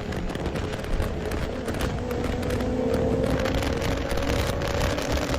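Several street-race cars' engines running loud together, with an engine note rising slowly through the second half.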